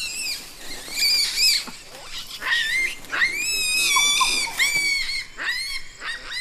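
Olive baboons giving a run of high, shrill calls. Each call rises and then holds, several overlap, and they follow one another every half second or so, as the troop is roused from sleep.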